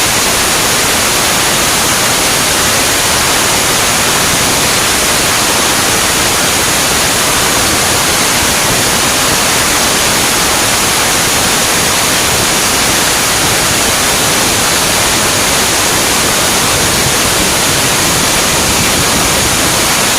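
Loud, steady hiss like static or white noise, even and unchanging, with no engine note or firing rhythm to be picked out.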